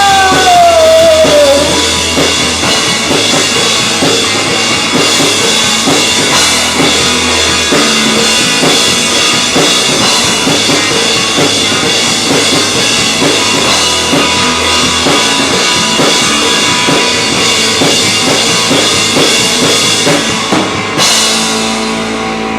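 Live rock band playing loud, with a busy drum kit and cymbals driving a steady beat; the cymbals drop out shortly before the end.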